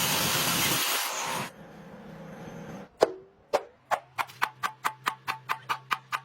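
A loud, even rushing noise cuts off about a second and a half in. After a short lull come sharp knocks, each with a brief ring: two slow ones, then a quickening run of about four a second over a steady low hum.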